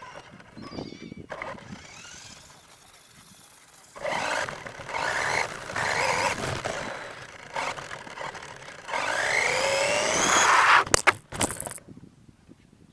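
Motor of an R/C monster truck rising in pitch as it speeds up, about nine seconds in, followed by a few sharp knocks.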